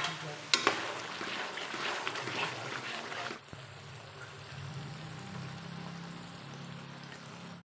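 Spices sizzling in hot oil in a metal kadai while a curry masala fries, with two sharp clicks about half a second in. The sizzle drops to a quieter, steady level after about three and a half seconds.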